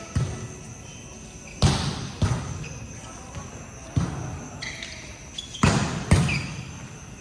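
Balls bouncing on a hard indoor court floor, echoing in a large hall: about six irregular heavy thuds, with a couple of short squeaks between them.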